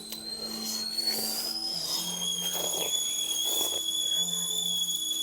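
Stovetop kettle whistling at the boil. A whistle rises in pitch over the first two seconds, then jumps to a steady shrill tone.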